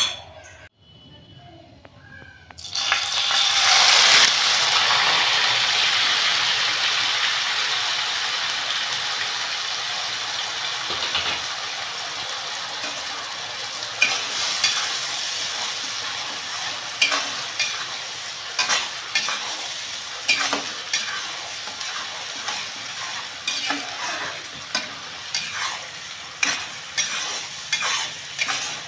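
A wet ground paste hits hot oil in a pan with a sudden loud sizzle a few seconds in. The sizzle slowly dies down as it keeps frying. From about halfway on, a spatula stirs and scrapes through it in repeated strokes.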